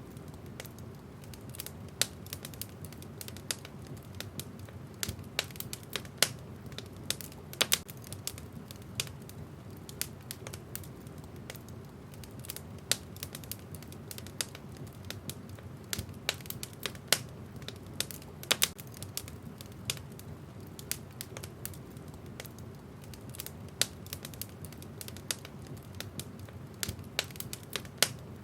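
Wood fire crackling and popping in a fireplace: irregular sharp snaps of burning logs over a low steady rush of the flames.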